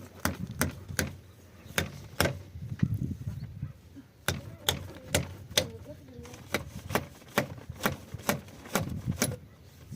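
Repeated sharp knocks, about two a second and slightly uneven, with low voices talking underneath.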